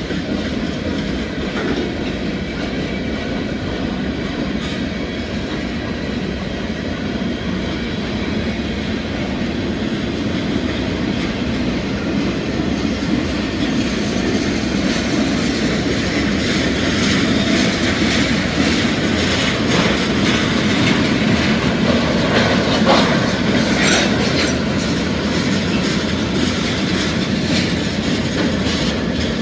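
Freight cars of a Norfolk Southern manifest train rolling past: the steady rumble and clickety-clack of steel wheels on the rails. It grows a little louder past the middle, with sharper clanks and faint wheel squeals.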